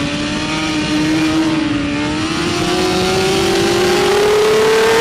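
Racing motorcycle engine running hard at high revs, its pitch climbing steadily and getting a little louder as the bike accelerates.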